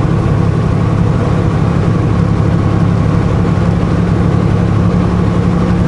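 Semi truck's diesel engine running steadily with a low drone, heard from inside the cab.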